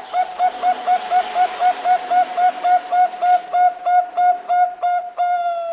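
Bangkok-strain zebra dove (perkutut) calling: a quick, even run of short clear notes at one pitch, about four a second, ending on one longer held note.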